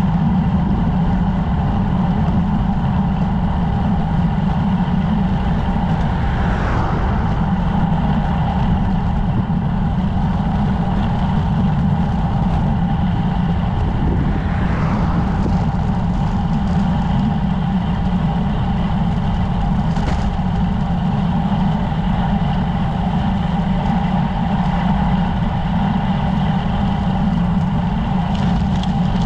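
Steady wind and road noise from riding a road bicycle, rushing over the microphone with no let-up.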